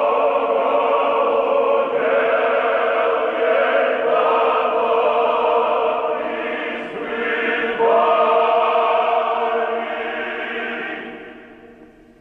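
Choir singing slow sustained chords, changing chord about two seconds and again about eight seconds in, then fading out near the end.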